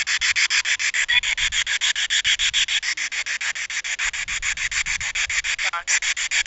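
Spirit box (ghost box) radio sweeping through stations: static hiss chopped into rapid, even pulses, about eight a second, with a brief snatch of tone about six seconds in.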